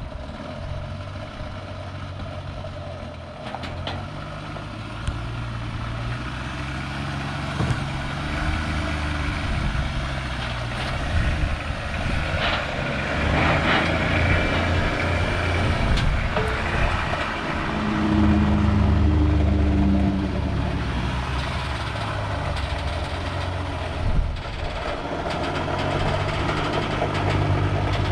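Motor vehicle engine running, its low hum stepping up and down in pitch as it works, with a few scattered knocks.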